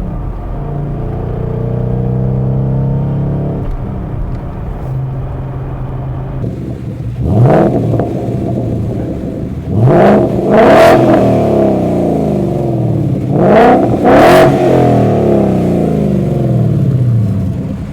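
2015 Ford Mustang GT's 5.0-litre V8 through an MBRP race exhaust with H-pipe: a steady exhaust drone for about six seconds, then several hard revving pulls, the engine note climbing sharply each time and falling back.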